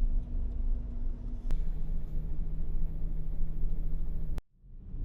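Low rumble of strong wind buffeting the microphone, with a faint steady hum underneath; it cuts off suddenly about four seconds in.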